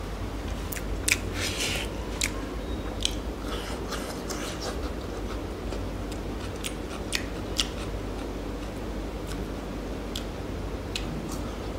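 Close-up mouth sounds of a person chewing food, with scattered short, crisp clicks and crunches over a steady low hum.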